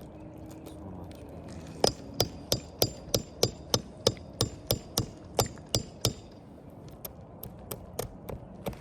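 Hammer driving nails during roof shingle repair: a steady run of about fourteen sharp blows, roughly three a second, then a few lighter taps near the end.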